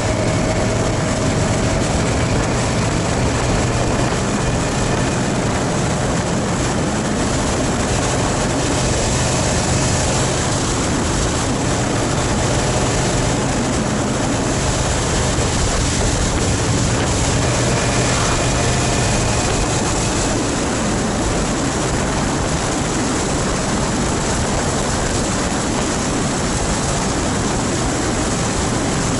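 Motorcycle engine running steadily while riding at road speed, under heavy wind noise on the microphone.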